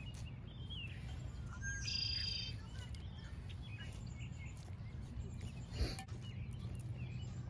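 Birds chirping against a steady low outdoor rumble, with one louder, buzzy call about two seconds in. A brief sharp click near the end.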